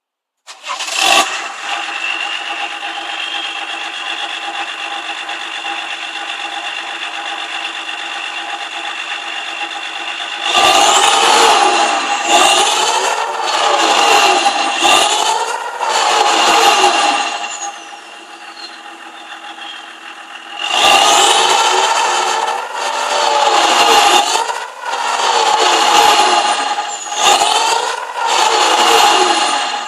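BMW E34 525tds's 2.5-litre turbodiesel straight-six starting about half a second in and settling to a steady idle. It is then blipped in two runs, three revs and later four, each rising and falling in pitch, with a falling high whistle as each rev dies away.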